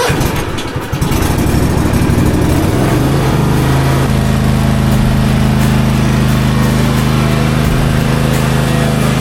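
Toro TimeCutter zero-turn mower's engine starting up, its pitch rising over the first few seconds as it is throttled up, then running steadily.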